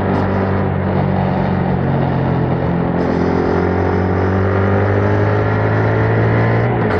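2021 Yamaha MT-07's 689 cc parallel-twin engine running through its stock exhaust while riding, its pitch steady at first and then slowly rising from about three seconds in as the bike gains speed, with a brief dip right at the end.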